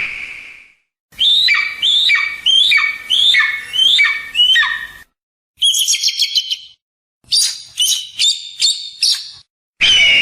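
Raptor calls. The tail of a long scream fades out in the first second, then comes a run of about seven sharp cries that each slide downward. A quick, high chattering burst follows, then another string of short piping notes.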